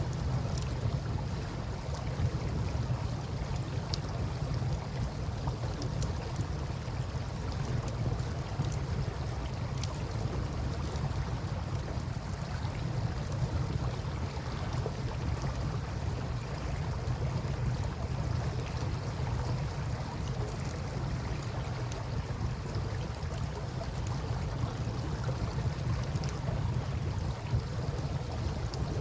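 Steady low rumble of a river flowing past, with scattered faint crackles and pops from a burning campfire.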